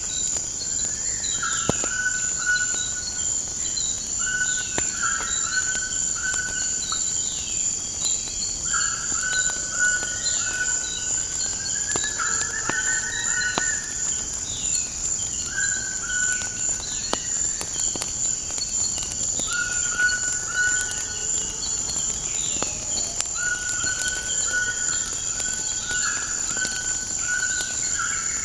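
Outdoor nature ambience: a steady high-pitched insect drone, with birds calling over it in short repeated notes and chirps. Now and then a sharp crackle from a wood fire snaps through, about half a dozen times.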